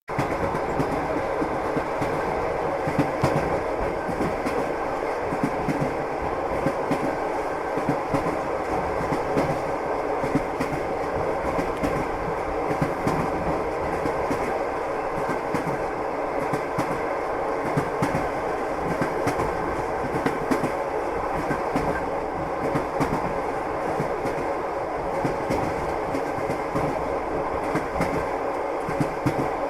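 Russian elektrichka (suburban electric train) running steadily: a constant rumble with a steady hum and frequent clicks of the wheels over the rails.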